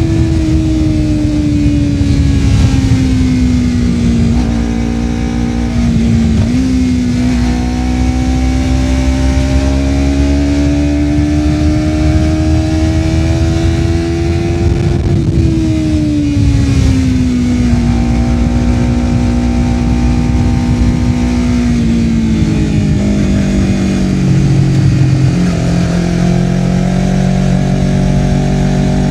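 Honda CBR250RR's parallel-twin engine through a Yoshimura R-11 slip-on exhaust, heard while riding. The engine note falls, climbs slowly for several seconds, drops again and settles lower near the end, over a low rush of wind and road noise.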